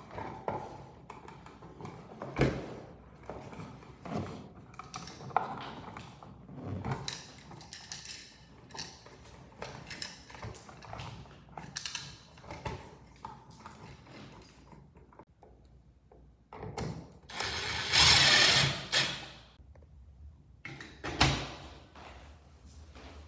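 Hand-tool and parts handling: scattered mechanical clicks and knocks, with a louder rushing noise lasting about two seconds near the end and a sharp knock shortly after.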